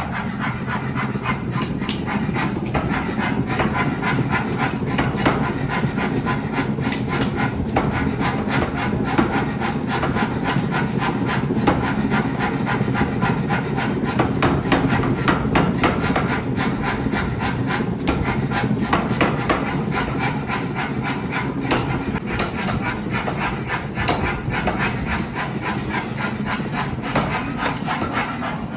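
Continuous metalworking noise in a forge workshop: a dense run of rapid knocks and clicks over a steady scraping rasp.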